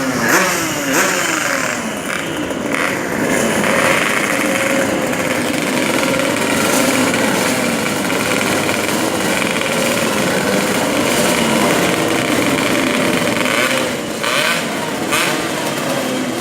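Tuned two-stroke Yamaha RX-King race bikes revving hard and accelerating, several engines rising and falling in pitch over one another.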